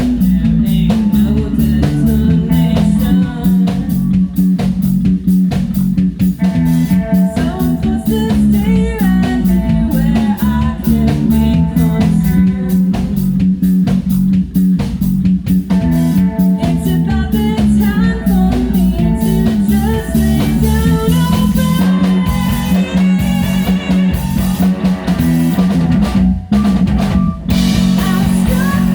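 Live rock band playing: guitar, bass and drum kit, with sung vocals over the top.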